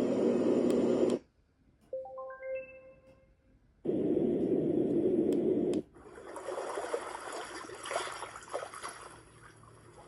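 Dream Egg portable white noise machine cycling through its built-in sounds: a deep rushing noise cuts off about a second in, a short climbing run of beep-like notes follows, the deep rushing noise returns for about two seconds, and then a brighter, uneven rushing sound with crackle takes over.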